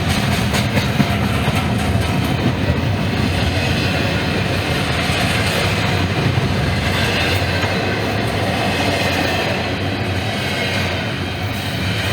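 Norfolk Southern freight train rolling past, a steady rumble of wheels on the rails with occasional clicks from the rail joints.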